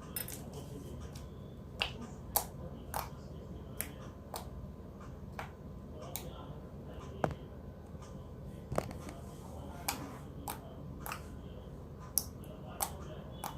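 Glossy slime being squeezed and kneaded by hand, making sharp wet clicks and pops about one or two a second.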